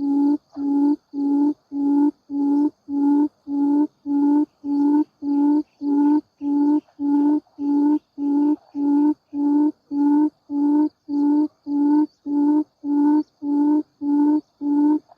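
Buttonquail (cút rừng) calling: a steady run of short low hoots, about two a second, all on the same pitch. A faint steady high insect whine runs behind them.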